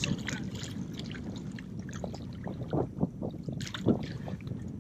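Water splashing and sloshing against a boat's side as a large hooked tarpon at the surface is grabbed by hand. The splashes come irregularly, with a sharper one about four seconds in.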